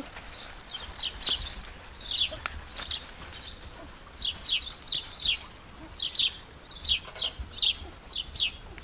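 A bird calling over and over: short, high chirps that sweep downward, coming two or three a second, often in quick pairs.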